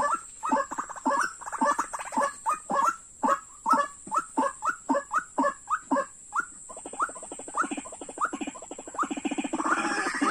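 White-breasted waterhen (dahuk) calling: a run of repeated harsh calls, about two to three a second, each rising in pitch, breaking into a faster stream of rapid pulses about two-thirds of the way in.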